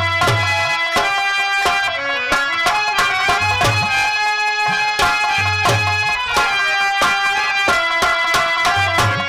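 Instrumental Indian folk music: a held melody line with drum strokes and recurring deep bass drum thumps, with no singing.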